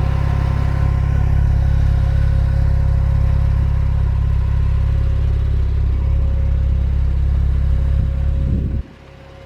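Porsche 911 Turbo's 3.8-litre twin-turbocharged flat-six engine idling with a steady, deep rumble, which stops abruptly near the end.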